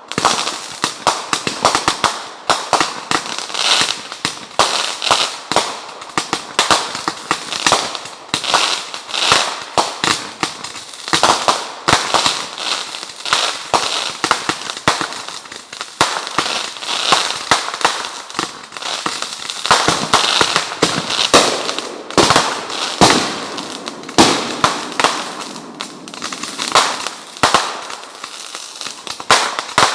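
Fireworks crackling and popping in a rapid, dense barrage, with louder bangs scattered through it. It starts abruptly and keeps going without a break.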